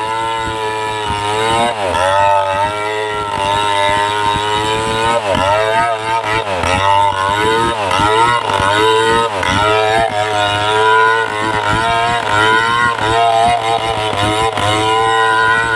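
Chainsaw running at high revs as it cuts into a tree trunk, its pitch dipping and recovering again and again as the chain bogs down under load and speeds up again.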